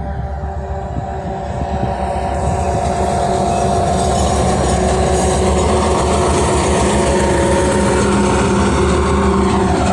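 Train approaching and running past the railway line, its rumble growing louder over the first few seconds, then holding steady and loud.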